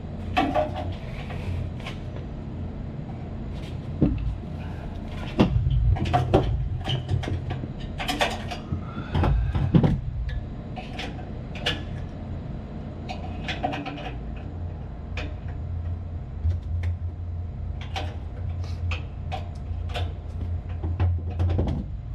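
Irregular metal clinks, taps and knocks of hand tools and parts being handled during motor reassembly, over a steady low machinery hum.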